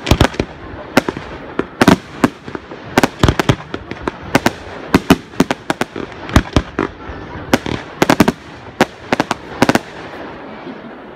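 Aerial fireworks display: a rapid, irregular barrage of shell bursts and sharp bangs that stops a little before the end.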